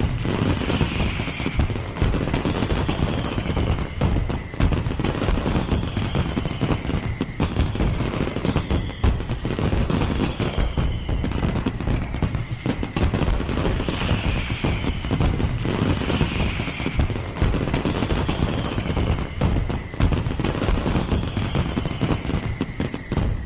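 Fireworks going off in a dense, rapid string of bangs and crackles, with short falling whistles repeating every couple of seconds.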